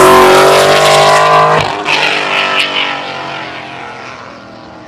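A car engine revving hard under acceleration, then the throttle lifts about a second and a half in and the engine sound fades steadily as the car moves away.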